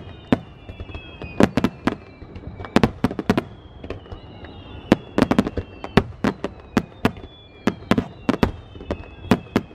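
Aerial fireworks shells bursting overhead in rapid volleys of sharp bangs, several a second at times, with thin whistling tones sliding slowly down in pitch behind them.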